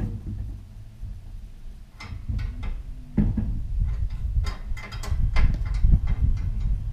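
KTM 690 Enduro's single-cylinder engine running at idle, with a steady low rumble and scattered sharp clicks and knocks of metal, the loudest about three seconds in.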